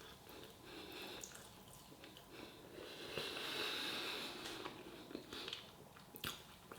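Faint sounds of a person eating chicken chow mein: chewing a mouthful, with breaths through the nose, loudest about halfway through.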